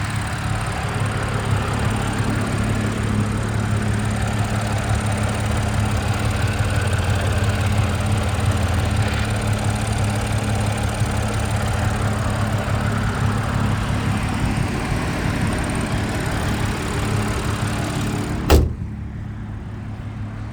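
Audi S5's supercharged V6 idling steadily, with one loud thump near the end.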